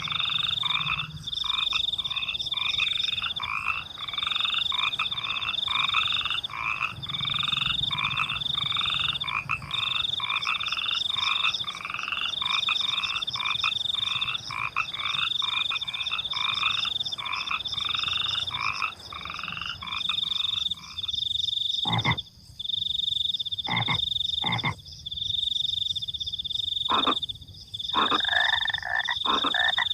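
Frogs croaking in a steady repeating chorus over a continuous high trill of crickets. About two-thirds of the way through, the frog calls drop out for several seconds, leaving the crickets and a few sharp clicks, then resume near the end.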